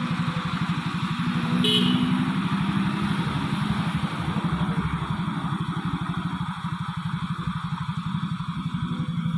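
Diesel truck engine running under load with a steady, rapid chugging beat. A brief high note sounds about two seconds in.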